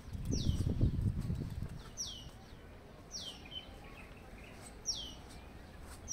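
A bird repeating a short, high call that sweeps downward in pitch, about five times at intervals of a second or so. A louder low rumble comes and goes in the first two seconds.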